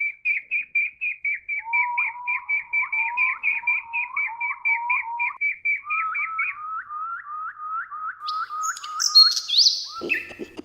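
Songbirds calling: one bird repeats a short chirp about five times a second while a second bird repeats a lower, rising note alongside it. Near the end, higher and shriller calls take over.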